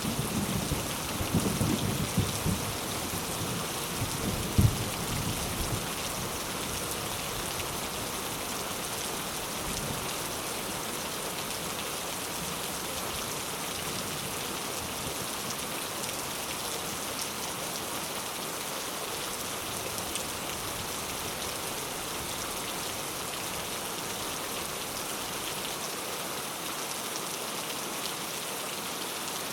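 Steady heavy rain falling on a surface, with a low rumble of thunder in the first few seconds that fades out, leaving only the even rush of rain.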